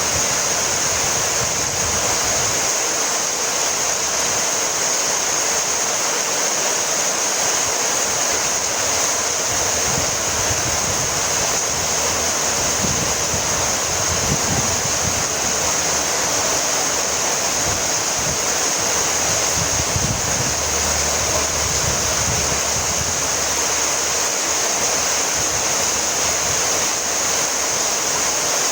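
Heavy rain falling steadily, an even hiss with no breaks, with some low gusty rumbles now and then.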